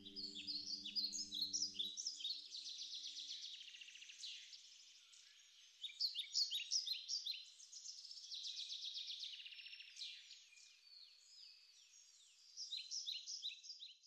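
Songbirds singing, a dense chorus of quick chirps and rapid trills. A soft sustained music chord fades out in the first couple of seconds.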